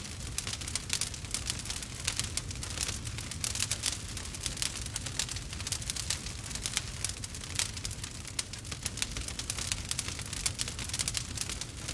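Wood fire crackling in a fireplace: a dense, irregular run of sharp snaps and pops over a low steady rumble.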